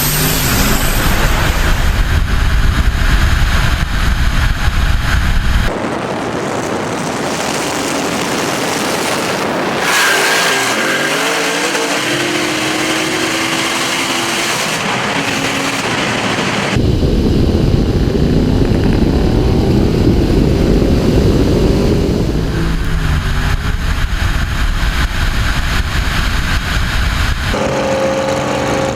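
High-horsepower turbocharged drag cars running hard down the strip, engines revving and rising in pitch through the gears. It comes in several short cuts that change abruptly.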